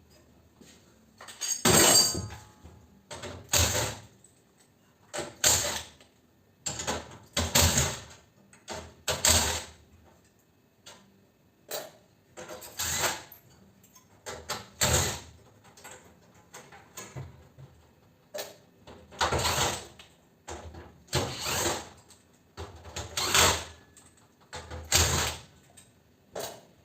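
Repeated short scraping, rasping noises, one every second or two, from the metal parts of ducted air conditioner units being worked apart for scrap.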